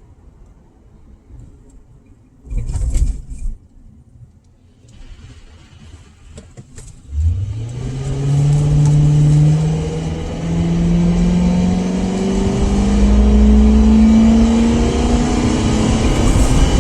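Car engine and road noise: a low rumble, a short loud knock a few seconds in, then about seven seconds in the car pulls away and accelerates, its engine note climbing steadily with a brief dip partway through.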